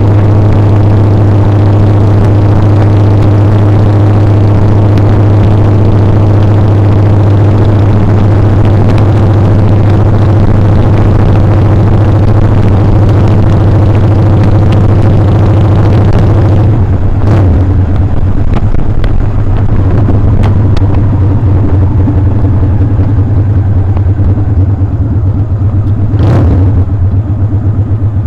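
Motorcycle engine running steadily under way, with wind rushing over the microphone. About two-thirds of the way through, the wind hiss drops away while the engine keeps running, and two short sharp clicks are heard.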